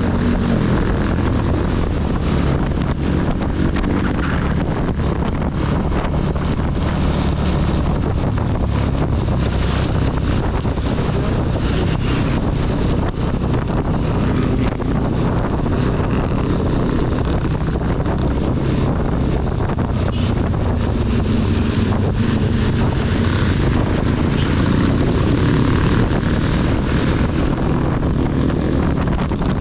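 CB 250 motorcycle engine running steadily at cruising speed, with wind and heavy rain noise on the onboard microphone. The level stays even throughout.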